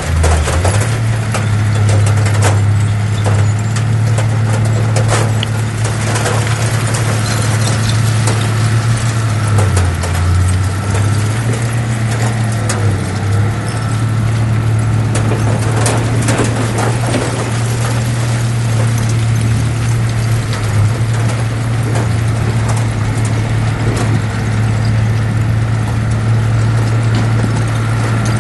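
Heavy diesel engine running steadily under work, its low drone dipping briefly in pitch a few times, with scattered metallic clanks and knocks.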